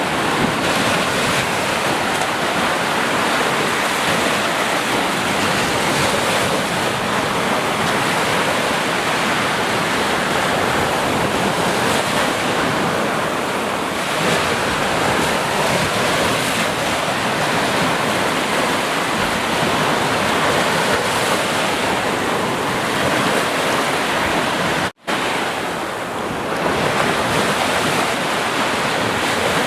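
Ocean surf: a steady, unbroken wash of breaking waves. About 25 seconds in, the sound cuts out for a split second and then returns.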